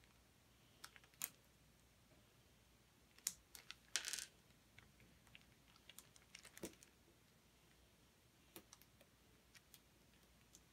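Plastic LEGO bricks clicking and snapping as a model is pulled apart: scattered sharp clicks with a short rattle of loose pieces about four seconds in.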